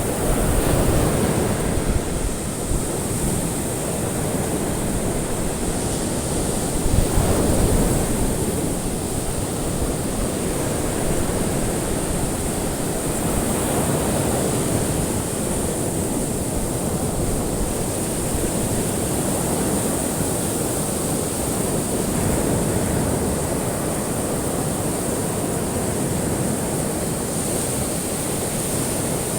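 Ocean surf: waves washing in continuously, swelling up and easing off every several seconds.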